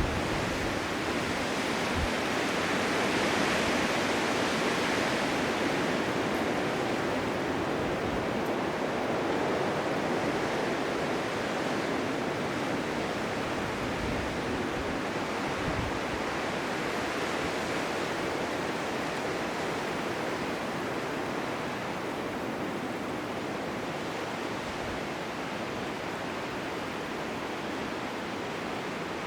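Blizzard wind blowing as a steady rushing hiss, swelling slightly a few seconds in and then easing off slowly.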